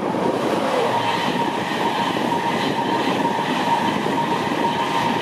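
InterCity 225 train passing at speed, a Class 91 electric locomotive hauling Mark 4 coaches: a steady rush of wheels on rail with a thin, steady whine running through it.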